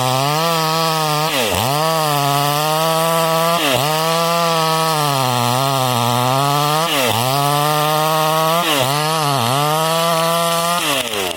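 ECO 52-18 two-stroke petrol chainsaw held at full throttle while cutting wood, its engine note sagging under load and recovering about half a dozen times. Near the end the throttle is let off and the pitch falls away.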